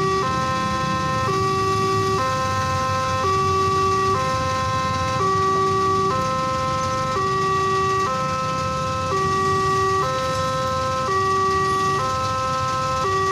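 Railway level-crossing warning alarm: an electronic two-note tone alternating between a lower and a higher note, each held about a second, sounding continuously to warn that a train is approaching. A low rumble runs underneath.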